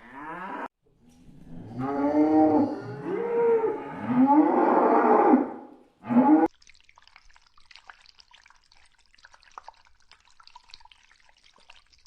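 An animal calling: a run of loud pitched calls that bend up and down for about five seconds, cutting off a little past the halfway point and leaving only a faint crackle.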